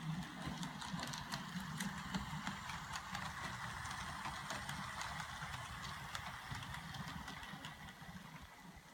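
HO scale GP-9 model locomotive running slowly along the track: a steady motor whir with many light clicks, growing a little quieter towards the end.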